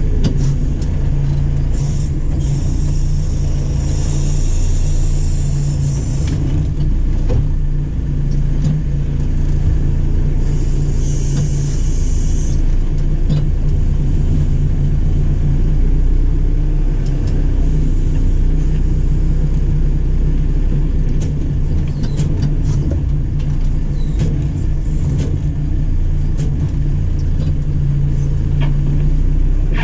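JCB 4CX backhoe loader's diesel engine running steadily at working revs, with a high hiss that comes and goes three times.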